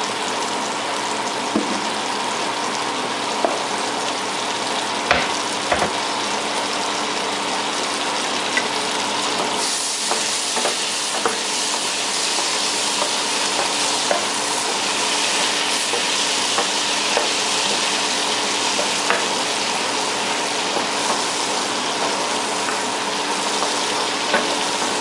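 Butter with dried parsley sizzling in a frying pan, a steady hiss that grows louder and brighter about ten seconds in, with occasional light clicks of stirring against the pan.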